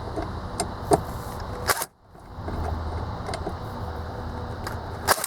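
Light clicks and taps of plastic dashboard trim being handled, over a steady low hum; the sound drops out briefly about two seconds in.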